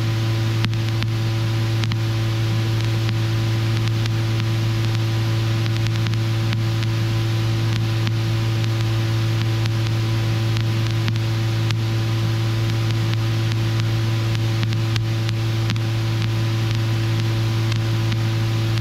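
Robinson R44 helicopter in flight: a steady drone of engine and rotor with a constant low hum and hiss that does not change.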